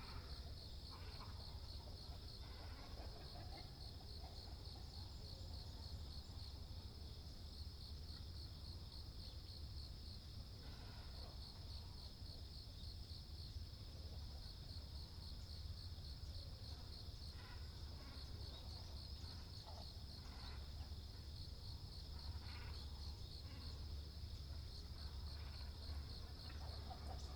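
A steady high-pitched insect trill, with short calls of great cormorants and herons every few seconds over a low rumble.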